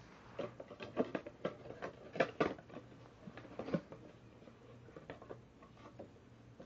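Plastic action figure and its packaging being handled, as the figure is put back in its box: a run of irregular clicks and knocks, busiest in the first four seconds, then sparser.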